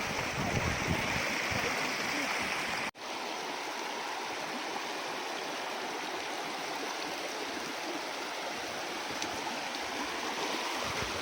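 Shallow stream of waterfall runoff flowing steadily over rocks, a continuous rushing and gurgling. The sound drops out for an instant about three seconds in, then carries on.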